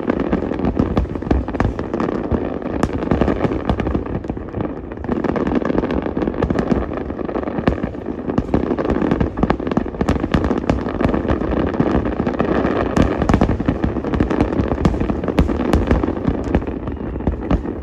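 Fireworks display: a dense, unbroken barrage of shell bursts and crackle, many sharp reports overlapping throughout.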